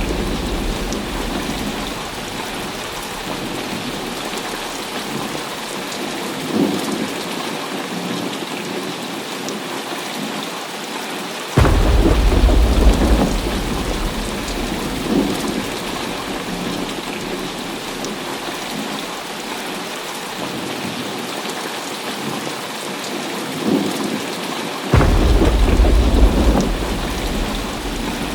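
Heavy rain falling steadily during a thunderstorm. Two claps of thunder break in suddenly, one about twelve seconds in and one near the end, each rolling off into a deep rumble over a few seconds.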